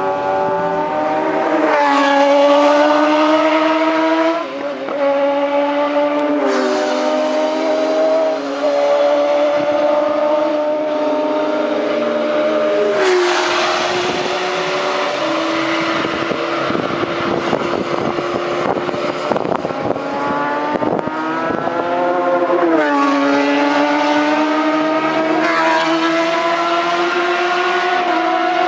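750cc racing motorcycle engines running at high revs, their pitch climbing and then dropping sharply at each gear change, several times over.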